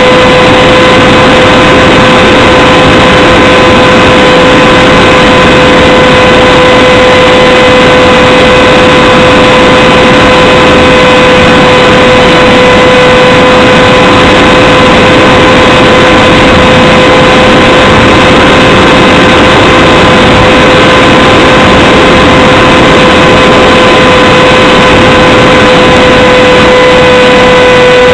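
Radjet 800 flying wing's electric pusher motor whining at one steady pitch, heard from the onboard camera under a loud rush of wind across the microphone.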